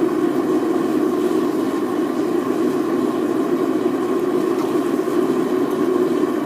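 Forced-air propane burner firing a metal-melting furnace, giving a loud, steady, unbroken rushing noise with no change in pitch.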